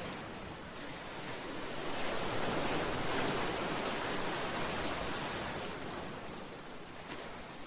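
Sea waves washing against a seawall and breakwater: a broad rushing wash that swells a couple of seconds in and ebbs away toward the end.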